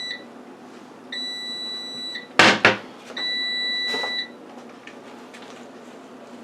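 Power Air Fryer Oven sounding its end-of-cycle beep: steady beeps about a second long, repeating about every two seconds, to signal that the set cooking time is up. A loud clunk falls between two of the beeps.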